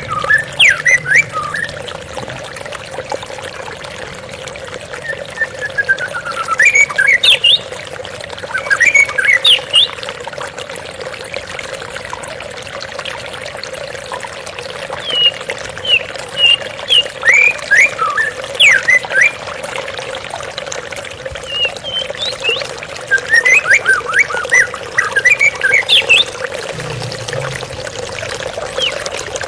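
Steadily flowing water with a white-rumped shama singing over it in four bursts of quick, sharply sweeping notes.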